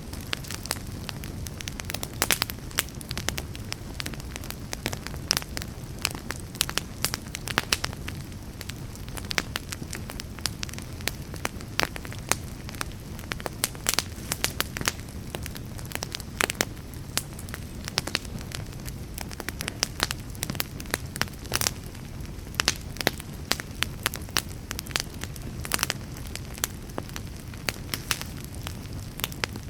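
Wood fire burning with frequent, irregular sharp crackles and pops over a steady low rush of flame.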